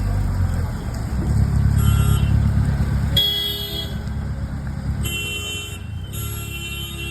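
Car engine running with a low rumble that swells in the first few seconds, while vehicle horns honk four times: three short toots and a longer one near the end.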